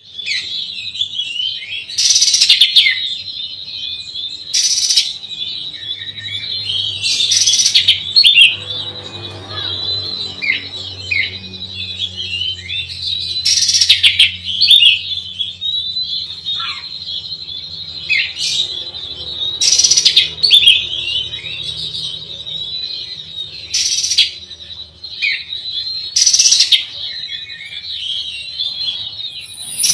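Oriental magpie-robin singing without a break: a fast stream of varied chirps and whistles, cut through every few seconds by a louder, noisier note.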